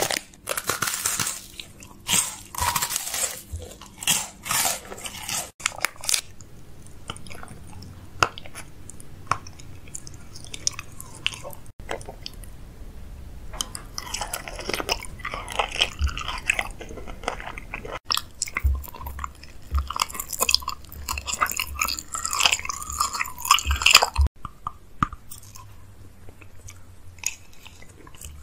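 Candy being eaten: a plastic wrapper crinkling as it is opened, then biting into and chewing gummy candies with crunchy mouth sounds.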